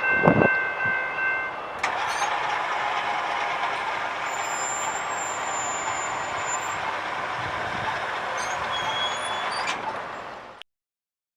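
A Metrolink train passing the crossing: a steady rush of wheel and rail noise with a few faint high squeals. It cuts off abruptly near the end. A steady high chord of several tones stops about two seconds in.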